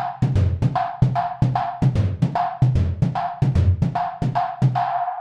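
A looping drum beat, kick and snare with quick even strikes, several a second, and a short mid-pitched synth note that repeats with the rhythm.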